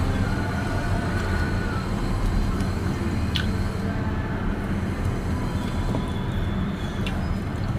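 Steady low rush of heavy rain, with a couple of faint clicks.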